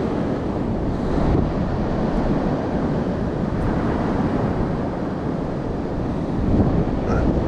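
Wind buffeting the microphone over the steady wash of sea surf, a dense low rumble that rises and falls slightly.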